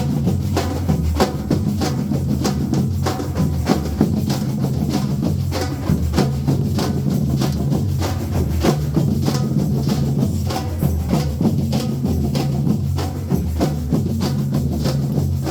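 A band's percussion rhythm section (its 'engine room') playing a quick, steady groove: sharp, evenly spaced strikes over drums, with low bass notes held underneath.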